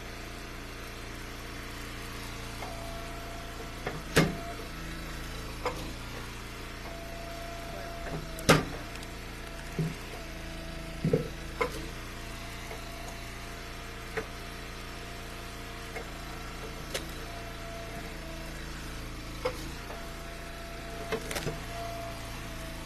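Hydraulic log splitter's gas engine running steadily, a higher tone coming in several times as it works under load. Sharp cracks and knocks of ash rounds splitting and split pieces landing, the loudest about 4 and 8.5 seconds in.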